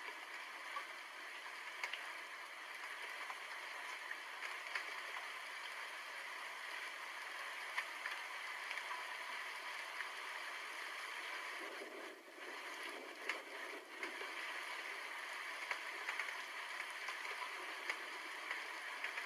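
Steady rain falling, an even hiss with scattered sharp drop ticks, briefly dipping in level about twelve seconds in.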